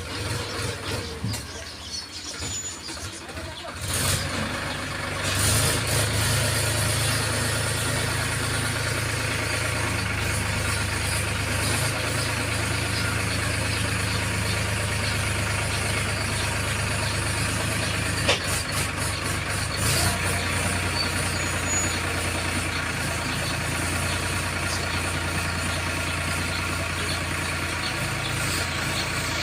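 A heavy vehicle's diesel engine catches about four seconds in and then runs steadily at idle, with a single sharp click partway through.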